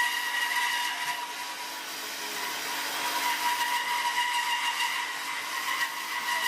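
Automatic profile drilling and cutting machine running: a steady high-pitched motor whine over a hiss, easing off about a second in and coming back a little after three seconds.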